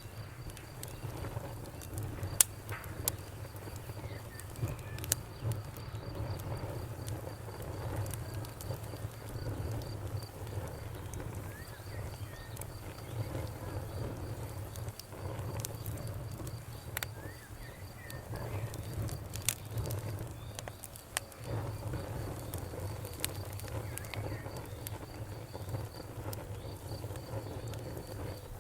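Wood fire in a fireplace crackling, with sharp pops scattered through over a steady low rumble of burning. The loudest pop comes about two and a half seconds in.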